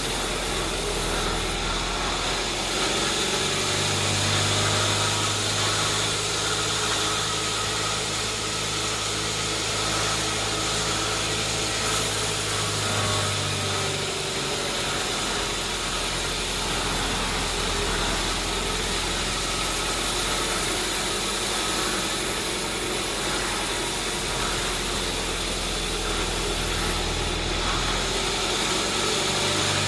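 Sawmill machinery running steadily, with a low hum that comes in from about four seconds in for some ten seconds and again near the end.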